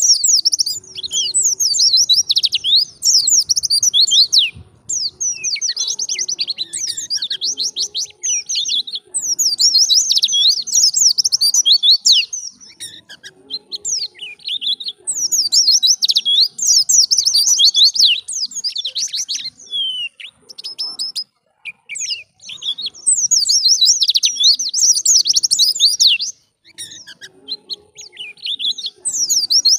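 White-eye (pleci) singing fast, high-pitched twittering phrases of rapid chirps that sweep down in pitch. The song comes in bursts of a few seconds with short pauses between them.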